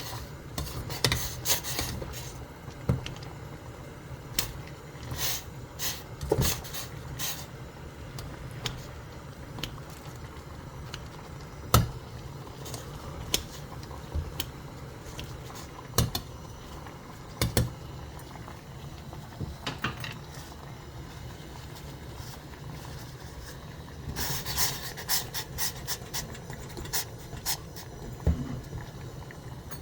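Kitchen handling sounds: scattered clicks and knocks of dishes and utensils over a steady low hum, with a quick run of clicks near the end.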